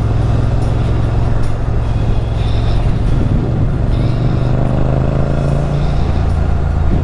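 Motorcycle engine running under way, a steady low drone whose pitch rises over the last couple of seconds as the bike accelerates.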